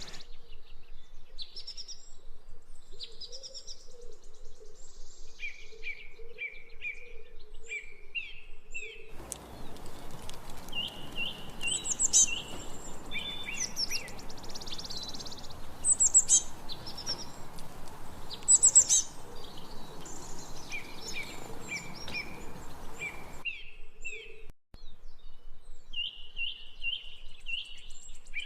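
Wild songbirds chirping and singing: strings of short, quickly repeated chirps, with a few louder, sharper high calls in the middle. A steady hiss of background noise comes in about a third of the way through and cuts off abruptly about two-thirds through.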